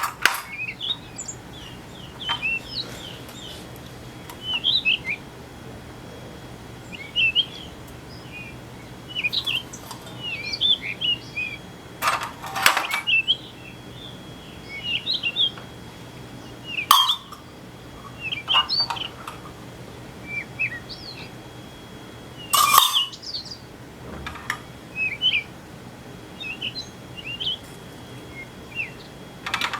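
Small birds chirping and twittering in quick short calls, with a few sharp knocks now and then.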